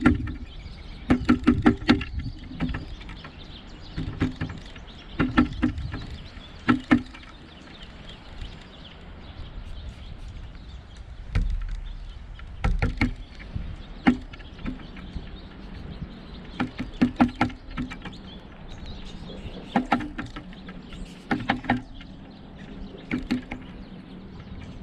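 Pileated woodpecker pecking at a suet feeder: quick clusters of sharp knocks, two to six strokes at a time, coming every few seconds with short pauses between.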